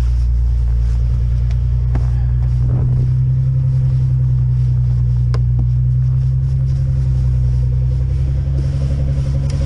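Car engine idling steadily in the cold, warming up after being started, with a couple of faint clicks.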